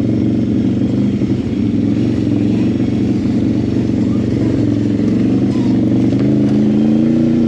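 ATV engine running steadily at low speed as the quad creeps along a rough, rocky trail, its pitch rising slightly near the end.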